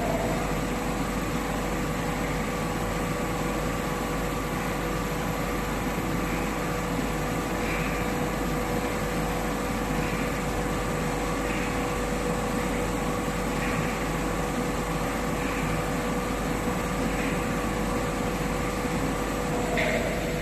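Internal and external grinding machine running steadily: a constant machine hum with a steady whine, and a faint swish recurring about every two seconds.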